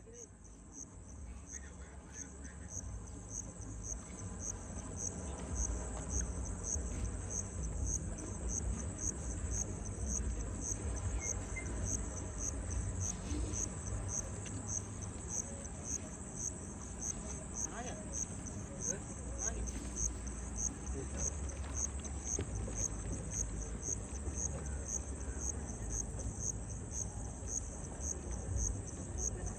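Insects keep up a shrill, rapidly pulsing trill without a break, over a low rumble that swells during the first few seconds and then holds steady.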